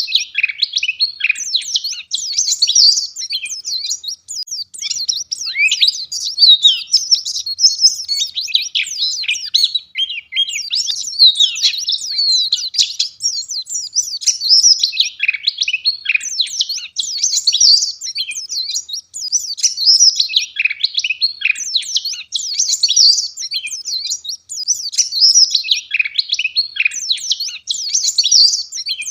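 White-eye (pleci) singing a rapid, dense, high-pitched twittering song in phrases of a few seconds, with brief breaks between them: the lively 'gacor' song used as a lure to get other white-eyes singing.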